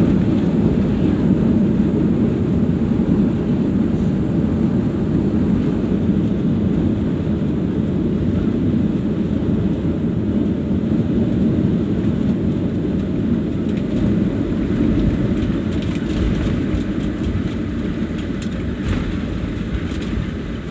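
Airliner on its landing approach: a steady low rush of engine and airflow noise that eases slowly toward the end.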